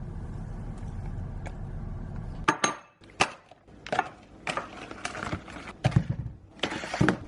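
A steady low rumble that stops suddenly about two and a half seconds in. It is followed by a series of sharp clinks and clatters of dishes and cutlery, the first with a brief high ringing tone.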